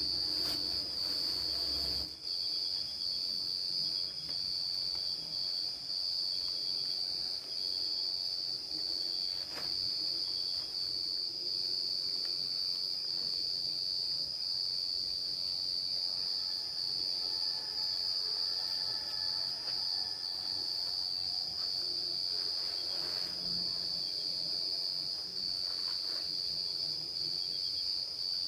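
A steady, unbroken high-pitched insect chorus, crickets or cicadas, in tropical forest, with a few faint knocks.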